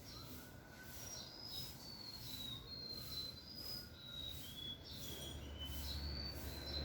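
Several small birds chirping and calling together: many short, high whistled notes, some sliding down in pitch, overlapping throughout. A low rumble joins about five seconds in.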